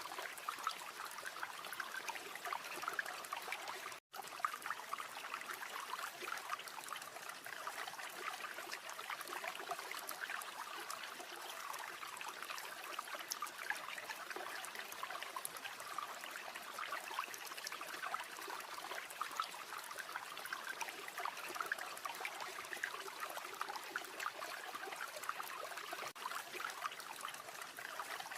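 River water flowing and babbling steadily over stones. The sound cuts out completely for a split second about four seconds in.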